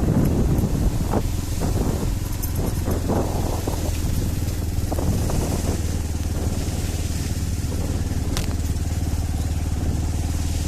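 Motorcycle engine running steadily while the bike is ridden, with scattered knocks and rattles and a sharp click about eight seconds in.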